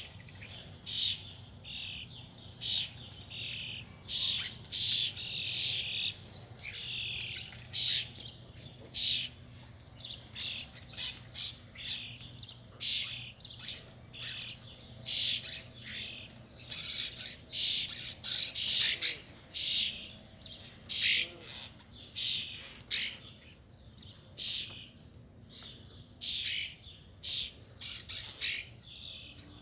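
A flock of starlings chirping and squawking: many short, harsh calls in quick, irregular succession.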